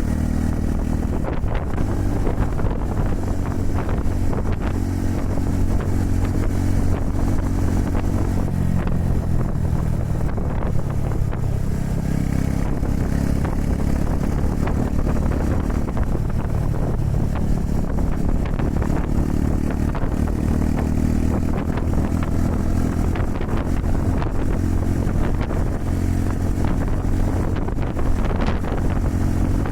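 Honda Super Cub 110's air-cooled single-cylinder engine running while riding, its pitch dipping about ten seconds in and picking up again, with strong wind buffeting the microphone.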